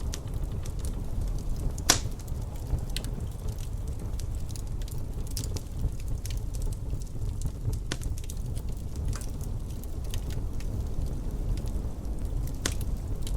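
Wood fire crackling in a fireplace: scattered sharp pops and snaps at uneven intervals, the loudest about two seconds in, over a steady low rumble.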